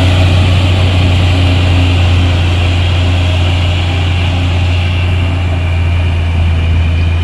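Heavy truck's diesel engine running steadily under load, a deep, even drone that eases off slightly near the end.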